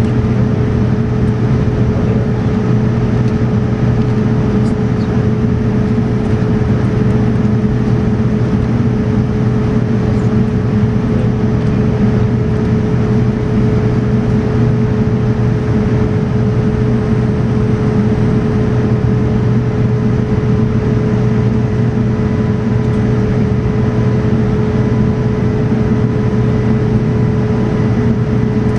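Steady cabin noise inside a Boeing 787-9 airliner on its approach: an even rumble of engines and airflow with a constant hum.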